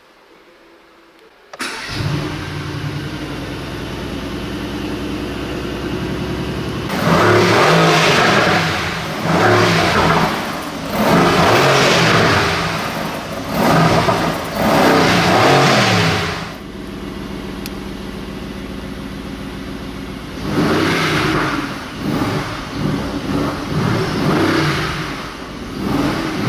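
Mercedes-AMG GT R's 4.0-litre twin-turbo V8 starting up about a second and a half in and settling to idle, then revved hard in a series of blips with brief drops back toward idle. It idles again for a few seconds, then is revved again several times near the end.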